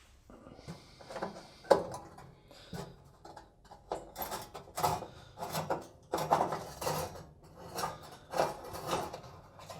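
Screws being turned out of an oven's metal back panel with a cross-headed screwdriver: a run of short scraping and clicking strokes, about two a second, with one sharper clack near the start.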